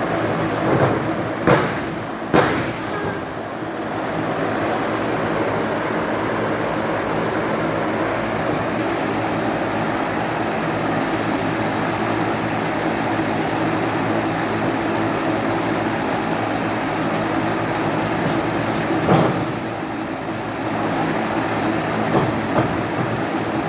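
Steady rumbling hall noise of a live wrestling match, with a few sharp thuds of wrestlers hitting the ring: two about one and a half and two and a half seconds in, and another near the nineteenth second.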